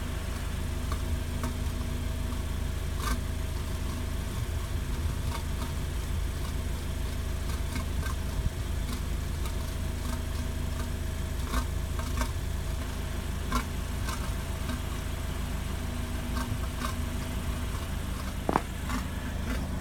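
Lexus RX exhaust at idle: a steady low hum broken by irregular sharp ticks every second or few seconds. The owner suspects an abnormal noise from the muffler, possibly something clogged inside it.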